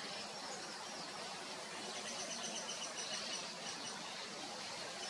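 Small birds chirping, with a quick run of high repeated notes about two seconds in, over a steady outdoor background hiss.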